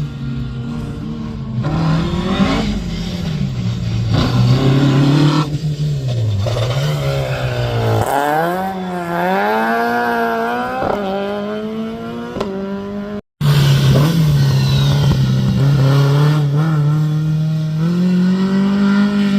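Rally car engine running under load, its pitch rising and falling repeatedly as the revs change. The sound cuts out completely for a moment about 13 seconds in, then the engine continues at steadier revs.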